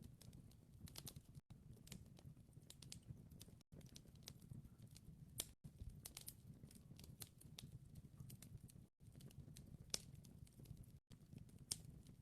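Wood fire crackling faintly: irregular sharp pops and snaps over a soft low rumble, with brief drop-outs to silence every couple of seconds.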